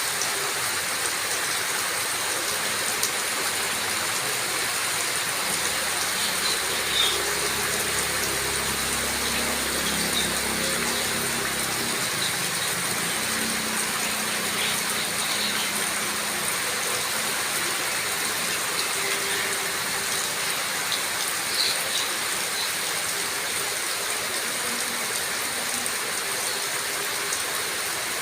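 Rain falling in a steady hiss, with a few louder drops here and there and a faint low rumble through the middle.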